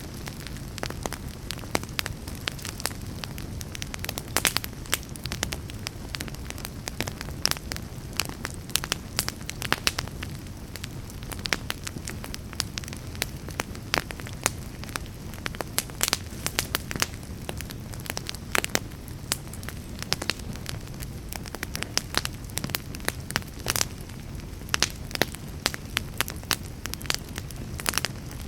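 Fire burning in a fireplace: a steady low rumble of the flames with frequent sharp crackles and pops scattered throughout.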